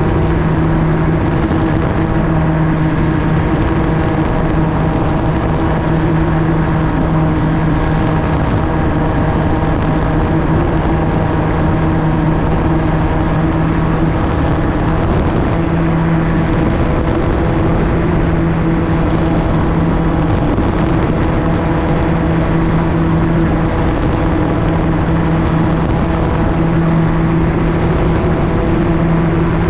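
Gyroplane engine and pusher propeller running at a steady cruise power in flight, a constant droning note, with wind rushing past.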